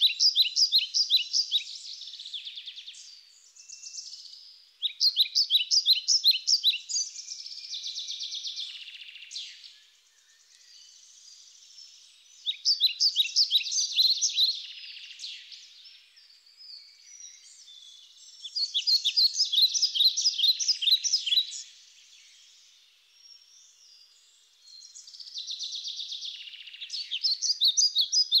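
A songbird singing: bouts of rapid, high chirping notes about three seconds long, repeated roughly every six seconds.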